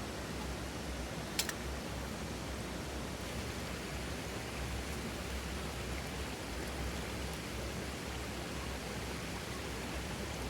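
Wood campfire burning: a steady hiss with one sharp crackle pop about a second and a half in.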